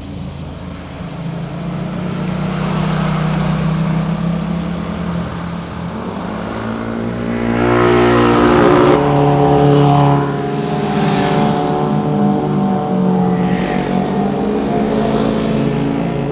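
Sport motorcycle engines revving and accelerating, the exhaust note climbing in pitch and getting louder about halfway through, loudest for a couple of seconds after that.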